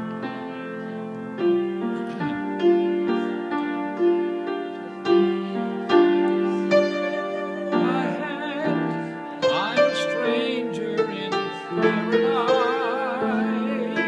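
A piano or keyboard played, a tune of struck notes and chords. A wavering tone joins in about eight seconds in and again near the end.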